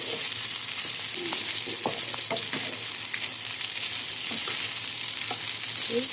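Fried rice sizzling in a hot nonstick wok while a wooden spatula stirs and turns it: a steady hiss of frying, broken by scattered short scrapes and taps of the spatula against the pan.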